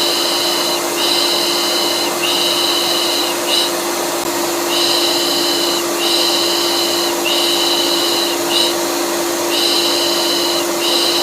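Vacuum cleaner running steadily with a constant hum, overlaid with a looped shushing 'shh' sound used to soothe colicky babies. The shushing comes in a repeating rhythm of three long shushes and one short one, about every five seconds.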